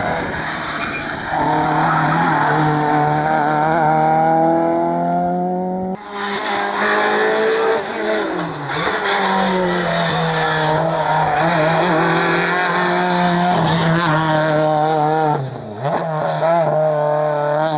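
Rally car engine at full throttle, its pitch climbing steadily as it revs out. There is an abrupt change about six seconds in, after which the engine holds high revs, with brief dips in pitch a couple of seconds later and again near the end, as at gear changes.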